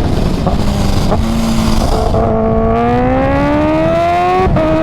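Kawasaki Ninja H2's supercharged inline-four, fitted with a Competition Werkes exhaust, pulling under acceleration. The engine note holds steady, then climbs from about halfway. Near the end it breaks briefly for an upshift and climbs again, over a low wind rush.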